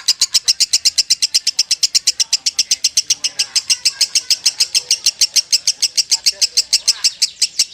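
Lovebird singing a long, unbroken run of rapid, high chirps, about eight a second, without a pause. This is the continuous 'konslet' style of chattering song prized in contest lovebirds.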